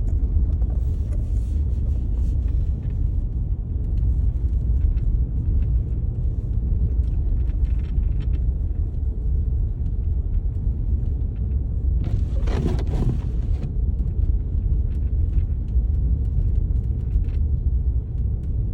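Storm wind buffeting the microphone: a steady low rumble, with a brief louder rush of hiss about twelve seconds in.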